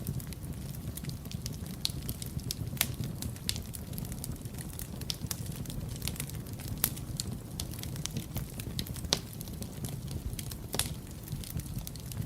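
Wood fire burning in a fireplace: a steady low rumble of the flames with frequent sharp crackles and pops, a few louder pops standing out.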